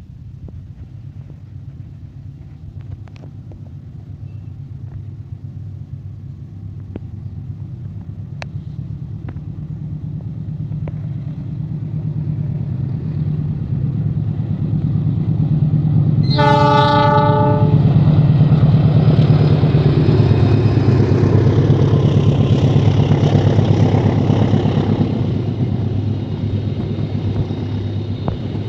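Diesel locomotive and its train approaching, a low rumble growing steadily louder, with one short horn blast a little past halfway. The train then runs close by with loud wheel and carriage noise, easing slightly near the end.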